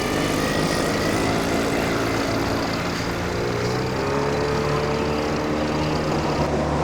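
Outboard boat motor running, its pitch climbing as it speeds up about three seconds in, then holding steady.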